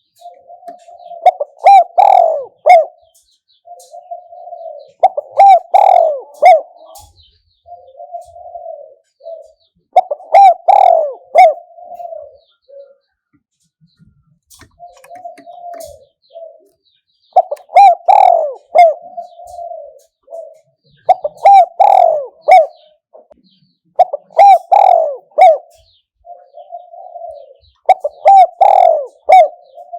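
Spotted dove cooing: a loud, repeated phrase of several coos, given about every three to four seconds, eight times.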